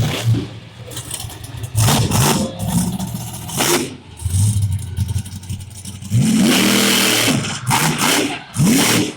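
Monster truck engine revving hard in repeated bursts, its pitch sweeping up and down, with several sharp cracks in between.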